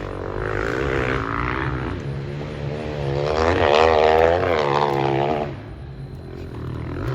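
An engine revving up and down repeatedly, loudest about halfway through, then dropping off.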